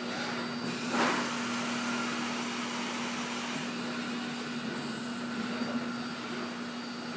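Robotic truck-unloading machinery running steadily: a constant hum over an even rushing noise, with a single knock about a second in.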